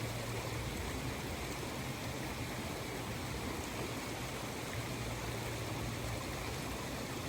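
A river running steadily, a constant rush of flowing water.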